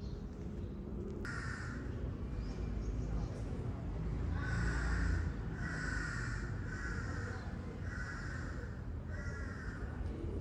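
A bird calling off camera: one harsh call about a second in, then five more in a row, each about half a second long and roughly a second apart.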